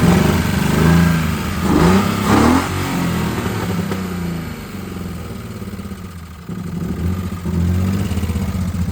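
BMW E36's engine restarted and running rough, with a couple of short revs in the first seconds and then a steady idle. The owners take it for a blown motor running on five cylinders.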